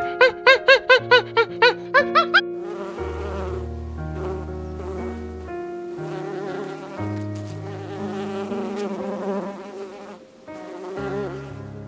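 For the first two seconds or so, a quick run of squeaky, rising cartoon-style tones, about five a second. Then bees buzzing, a continuous hum that wavers and shifts in pitch.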